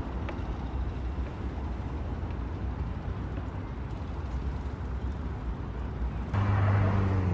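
Street traffic noise: a steady rumble of passing road vehicles, with a louder steady engine hum starting suddenly about six seconds in.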